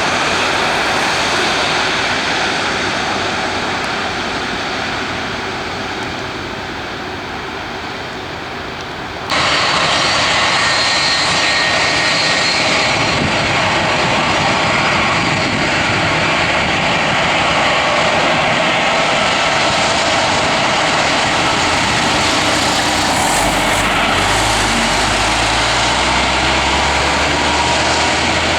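Airliner engines running loud and steady, a dense roar with no pauses. About nine seconds in, the sound jumps abruptly louder and brighter.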